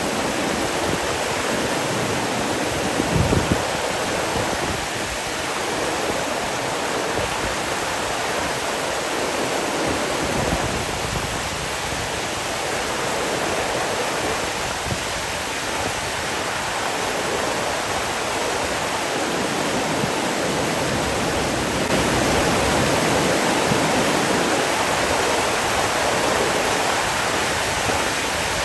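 Steady rushing of flowing water, a waterfall or fast stream, with a brief louder low surge about three seconds in.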